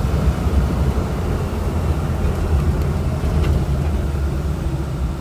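Daihatsu 4WD mini van driving, with a steady low drone of engine and road noise.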